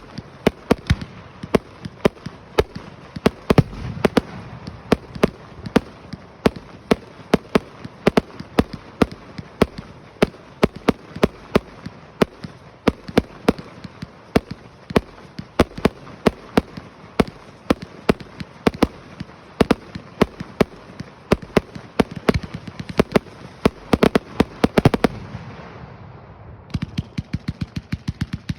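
A dense, irregular run of sharp pops and bangs, two or three a second.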